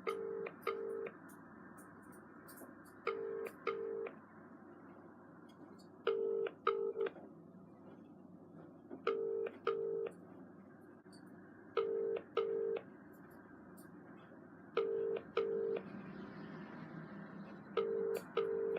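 British telephone ringback tone on an outgoing mobile call: seven double rings ('ring-ring'), one pair every three seconds. The call is ringing at the other end and is not being answered.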